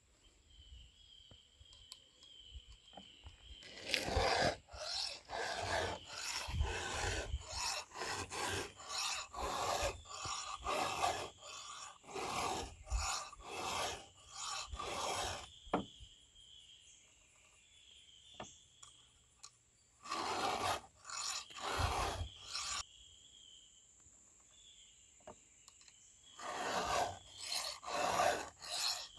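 Hand file rasping across chainsaw cutter teeth in runs of even strokes, about one to two a second, with short pauses between the runs.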